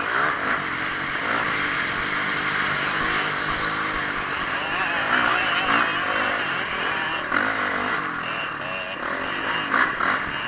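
Motocross motorcycle engine at race pace, revving up and down repeatedly as the throttle is opened and closed.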